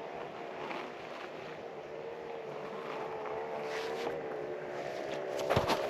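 Honda CRF150L's single-cylinder engine running at low, fairly steady revs, its pitch wavering slightly. A few sharp knocks come near the end.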